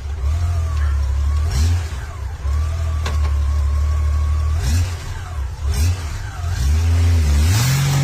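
Motorcycle engine running loudly, its revs rising in several short blips with brief dips between them.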